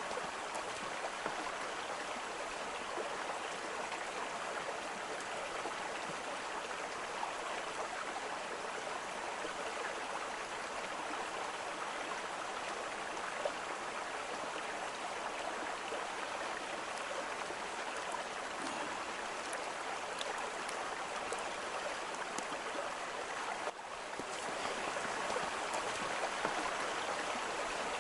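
Running water from a stream, rushing steadily. There is a break about 24 s in, after which the water is slightly louder.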